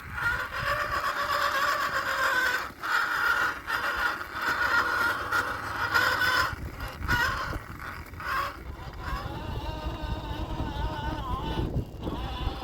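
Axial SCX10 II RC crawler's electric motor and gear drivetrain whining, cutting out and starting again several times as the throttle is worked, the pitch wavering with speed in the second half. A low rumble sits underneath.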